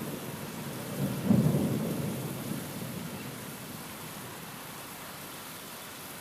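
Steady rain with a rumble of thunder that swells about a second in and fades away over the next couple of seconds.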